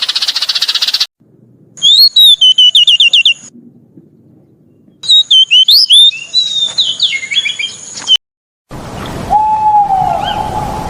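A string of separately edited animal-sound clips. A fast pulsing trill cuts off about a second in. Two bursts of high, quickly repeated whistled bird calls follow, then a steady held tone over a noisy background near the end.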